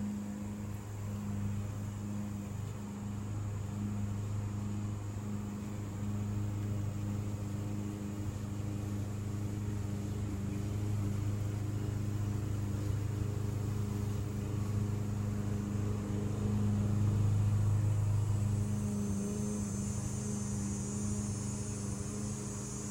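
A steady low hum runs throughout, with a faint high whine above it.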